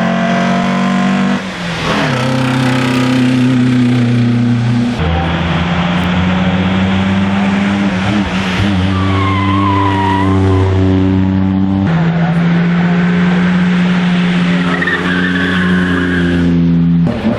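Classic race car engine running hard, its pitch jumping abruptly a few times between long steady stretches, with tyres squealing briefly twice, about halfway through and again near the end.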